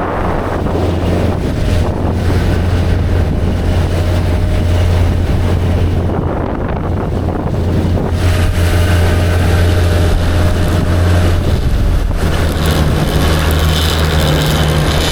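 Fishing boat's engine running steadily while trolling, with wind buffeting the microphone; the engine note shifts a little after about twelve seconds.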